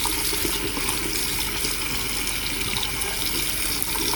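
Water running steadily from a faucet, being run hot to test a newly installed water heater.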